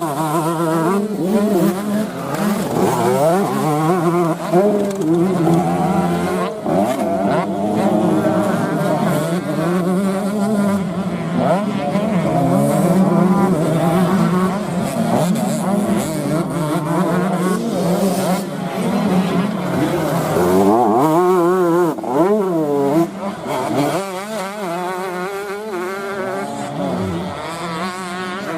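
Several 125 cc motocross bikes' engines running hard, their pitches rising and falling over each other as they rev, with sharp rev sweeps about two-thirds of the way through.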